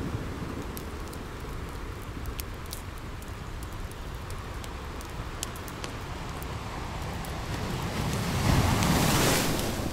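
Steady rain ambience with scattered sharp crackles, swelling into a louder rushing noise about eight and a half seconds in.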